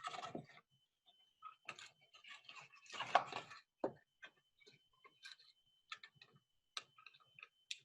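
Faint irregular clicks and short rustles of a cardboard drink carton and string being handled as the string is threaded through two punched holes, with a louder scrape about three seconds in. A thin steady high tone sits underneath.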